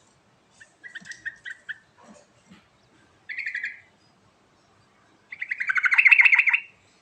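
Sooty-headed bulbul (trucuk) singing in three phrases of quick notes. The last phrase, about five seconds in, is the longest and loudest.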